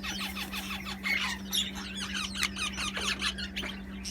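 Pet parrots chirping and chattering in a rapid string of short squawky chirps that rise and fall in pitch.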